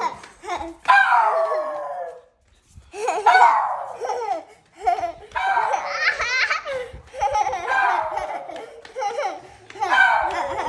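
A toddler laughing hard in bursts, high-pitched squealing peals that fall in pitch, with a short break a couple of seconds in.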